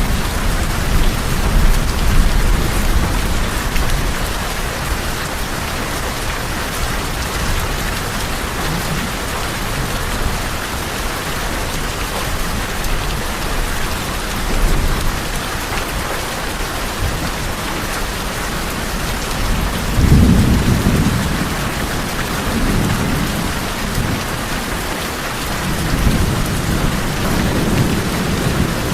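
Steady rain drumming on tin roofs, a continuous even hiss. Low thunder rumbles come and go several times, the strongest about two-thirds of the way through.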